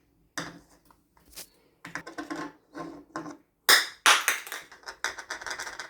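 A run of irregular clicks, clatters and rustles from small objects being handled, loudest about two-thirds of the way through.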